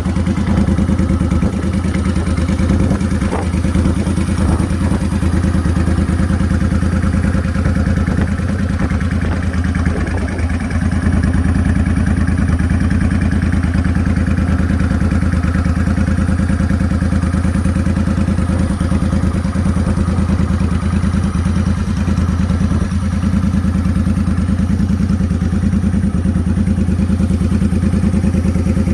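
A motorcycle engine running at a steady idle, its pitch even throughout, with a few light clicks in the first few seconds.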